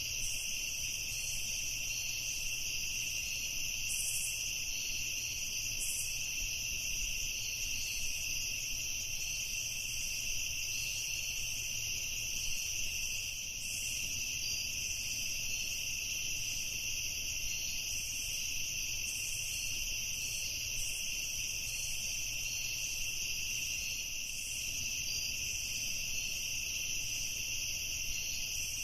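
Steady evening chorus of crickets, a continuous high trilling with a faint fast pulsing layer above it and no pauses.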